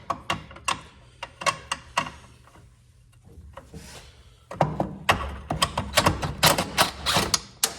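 Socket ratchet wrench clicking in quick strokes as a bolt is worked loose, after a few separate knocks of metal hardware being handled.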